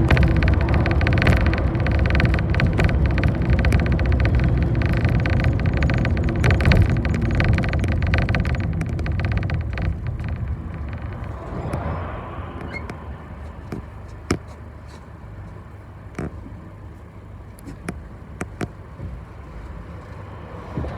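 Bus engine and road noise heard from inside a moving city bus, loud and steady for about ten seconds. It then dies down to a quieter hum, with a few scattered clicks and knocks in the second half.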